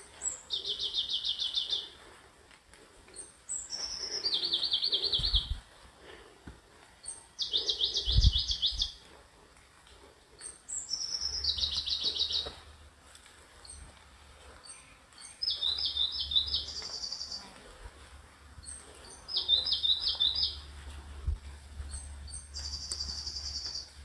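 A songbird repeating the same short song seven times, about every 3 to 4 seconds: a brief high note followed by a fast, high trill lasting about a second and a half.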